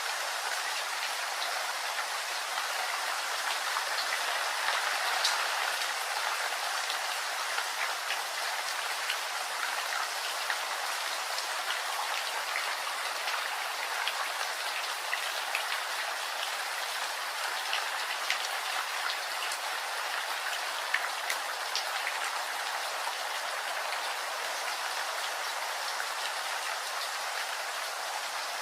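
Steady rainfall, a constant hiss of rain with individual drops ticking sharply here and there.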